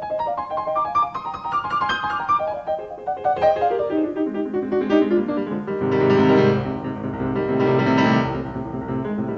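Solo piano playing classical music: quick runs of notes climbing and falling, then the texture thickens into loud, full passages deep in the keyboard that swell twice, about six and eight seconds in.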